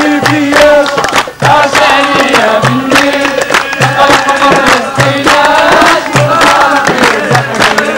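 A group of voices singing a chant together, over a drum beat about once a second and sharp hand claps.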